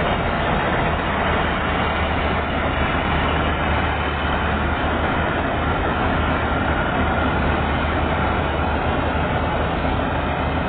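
Chardikala combine harvester running steadily under load while cutting a crop: a continuous low diesel engine drone with the dense clatter and whir of the cutting and threshing machinery.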